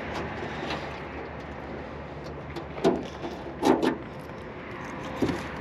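Metal clunks from a 1972 Chevy Chevelle's body being handled as it is opened up for inspection, likely a door or lid latch and hinge: one knock about three seconds in and a quick pair just after.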